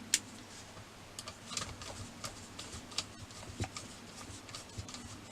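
Small irregular clicks and light taps of a wheel being fitted onto the back of a radio-controlled model car, with one sharp click just after the start.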